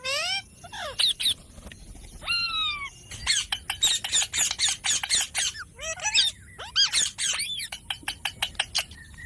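Indian ringneck parrot calling: a string of arched, rising-and-falling chirps and squawks, broken by fast clicking chatter in the middle, then quieter near the end.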